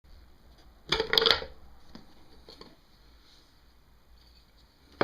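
Brief clatter of metal engine parts being handled about a second in, then a few faint clicks, as the stator cover comes off the motorcycle engine.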